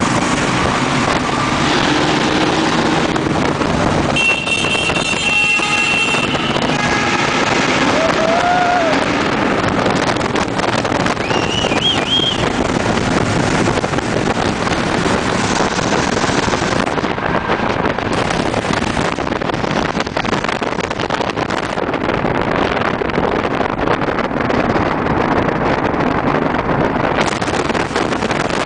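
Motorcycles riding through a long road tunnel: engines running with steady wind noise on the microphone, the tunnel walls making it a dense, continuous din. A high steady whine comes in about four seconds in for a couple of seconds, and two short rising-and-falling tones follow a few seconds later.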